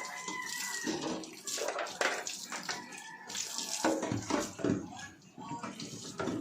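Tap water running and splashing as refrigerator parts are rinsed, uneven, with irregular knocks.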